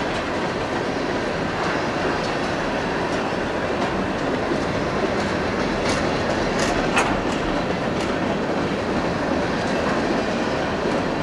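Freight train cars rolling past on the rails: a steady rumble of wheels on track, with a few short sharp clicks about six to seven seconds in.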